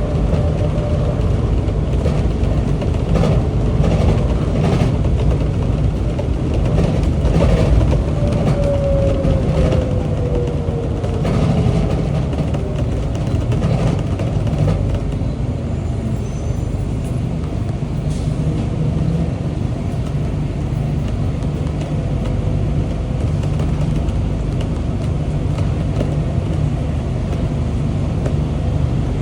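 Rubber-tyred Bukit Panjang LRT train running on its guideway, a steady low rumble with a few knocks in the first several seconds. A motor whine falls in pitch from about eight to twelve seconds in.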